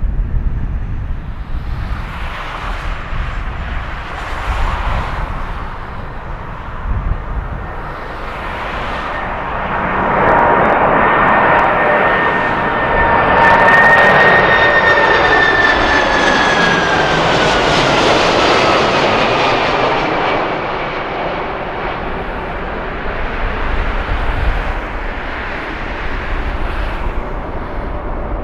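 Boeing 747-400 freighter's four jet engines growing louder as it passes, loudest in the middle. A high engine whine slides down in pitch as it goes by, then the sound fades away.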